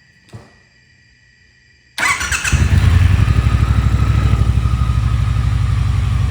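Cold start of a 2022 Triumph T120's 1200 cc parallel-twin: after a quiet start, the engine cranks and fires suddenly about two seconds in, then settles into a steady, evenly pulsing idle.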